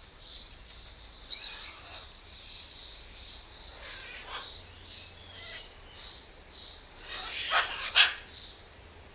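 Birds calling continually with short high calls, and two loud harsh squawks close together near the end.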